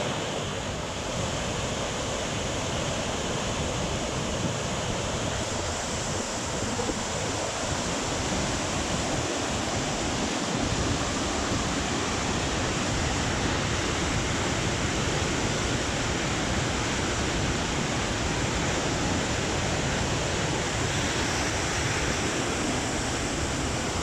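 Steady roar of a river running high and fast in flood after a typhoon, water rushing without a break.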